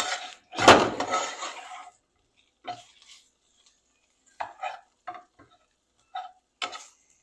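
Kitchen pots and utensils clattering: a longer clatter in the first two seconds, then a string of short metallic clinks.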